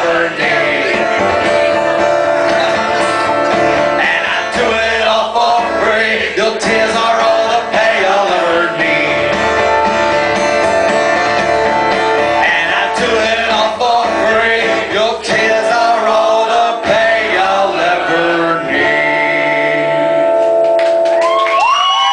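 Live music: guitar and singing, loud and continuous, from a song performed with the audience singing along.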